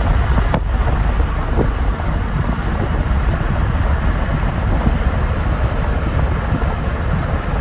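Steady wind buffeting the microphone with a heavy low rumble, the rush of air from travelling at speed. It cuts off abruptly at the end.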